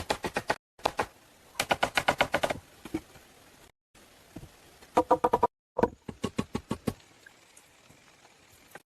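Rapid knocking strikes, about eight to ten a second, in several short bursts that each stop abruptly. Each knock has a ringing, wooden-sounding pitch, and only a few scattered knocks follow near the end.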